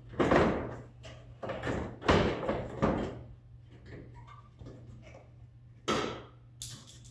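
About six sharp clunks and bangs from car body parts being handled and knocked during a teardown: four close together in the first three seconds, then two more near the end.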